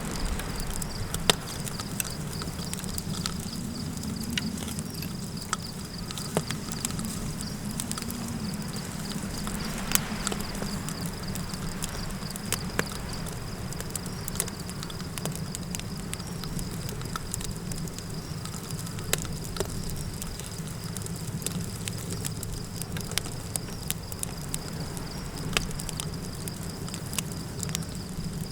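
Campfire crackling, with many scattered sharp pops and snaps over a steady low rumble, and a steady high insect trill like crickets running underneath.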